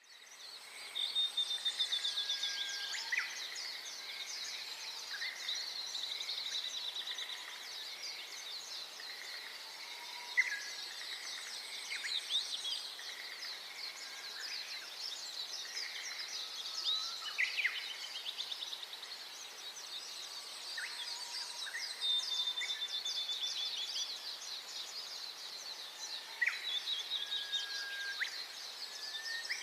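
Many birds chirping and calling at once in a dense, continuous chorus of high chirps, with separate short whistled calls and quick upward-sweeping notes scattered through it.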